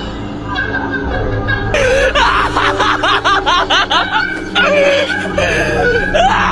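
Laughter, a run of rapid chuckling pulses about four a second, over background music.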